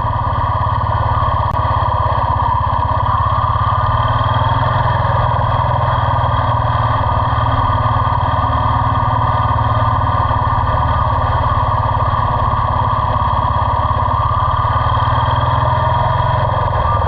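Royal Enfield motorcycle engine running steadily, loud and close, with a rapid even pulse of firing strokes and no clear revving.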